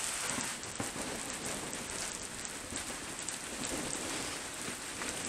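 Thunderstorm rain falling steadily, with scattered drops ticking close by.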